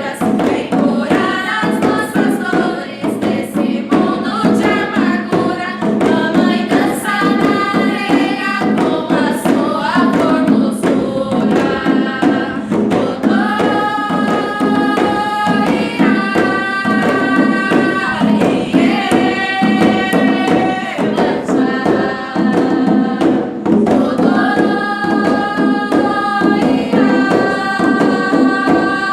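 Voices singing a chant-like song in long held notes, with percussion beneath.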